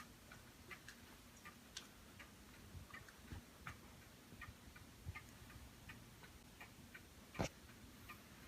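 Faint, even ticking, about two to three ticks a second, with one louder click about seven and a half seconds in.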